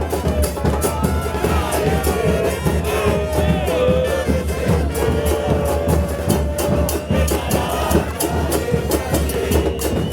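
Football supporters singing a chant in chorus over steadily pounding bass drums.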